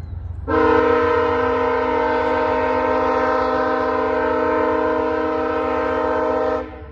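VIA Rail passenger locomotive's air horn sounding one long blast of about six seconds, several notes at once. The blast starts about half a second in and cuts off near the end, over a low rumble.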